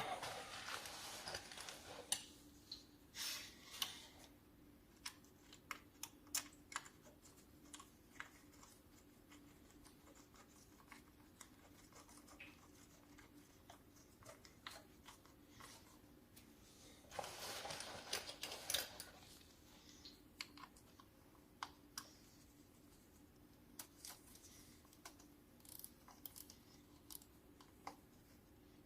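Faint handling noises: scattered sharp clicks and taps, with two short scraping or rustling stretches, one at the start and one about two-thirds of the way in.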